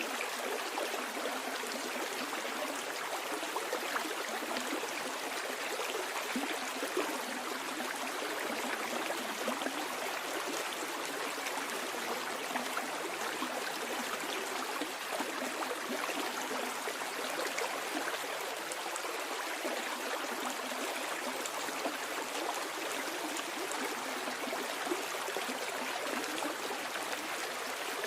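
Stream water flowing downstream over stones, a steady babbling and gurgling rush with no breaks.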